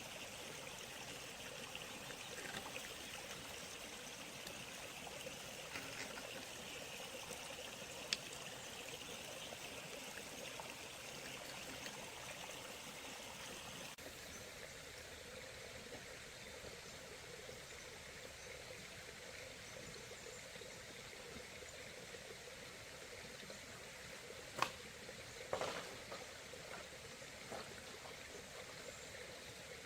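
Running water flowing steadily, with a few faint knocks: once about eight seconds in and twice close together near the end.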